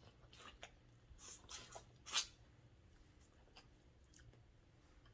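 Faint eating sounds: a few short mouth clicks and smacks of chewing, the loudest about two seconds in.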